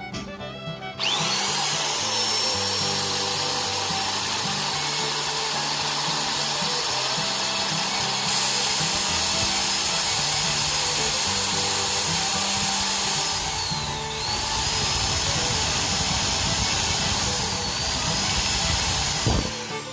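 High-speed electric power tool switched on about a second in, its motor whine rising to full speed and running steadily. The whine dips twice, briefly dragged down as the tool bears on the work, then recovers, and it stops just before the end. Background music plays underneath.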